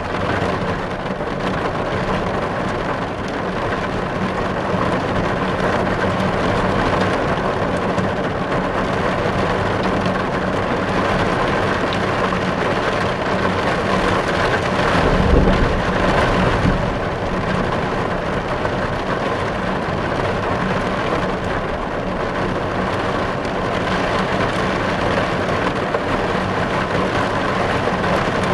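Heavy rain drumming on a car's windows and windscreen, heard from inside the cabin as a steady, dense patter. About halfway through there is a brief low rumble.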